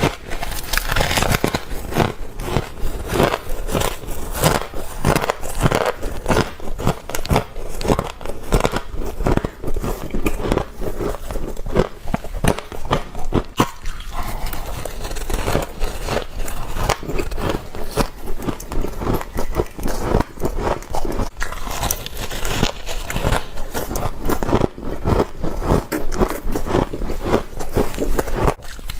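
Close-up crunching of white frost bitten and chewed in the mouth, a continuous run of crisp crackling bites and chews.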